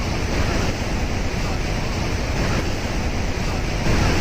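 Bridal Veil Falls at Niagara pouring down, a steady, loud rush of falling water, with wind buffeting the microphone.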